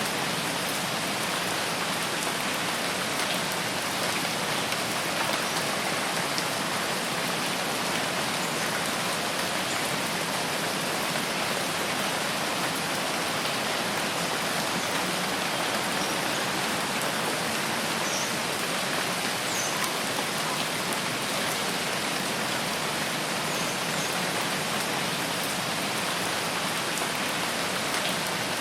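Steady rain falling, an even unbroken hiss of drops with no change in strength.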